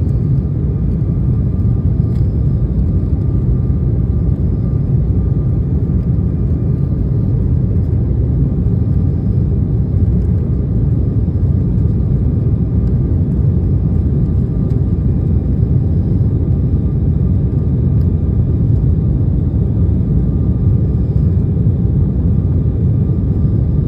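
Steady low rumble of a Boeing 737's engines and airflow heard from inside the cabin during takeoff, with a faint thin whine held at one pitch above it.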